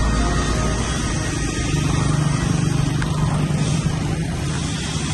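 Motorbike engine running with traffic and road noise; a low engine hum strengthens from about two seconds in and fades back after about four.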